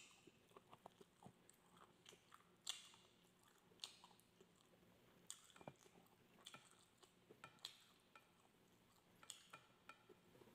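Faint mouth sounds of a person chewing barbecued skewer meat and rice, with irregular short smacks and clicks, two of them louder a little under three and four seconds in.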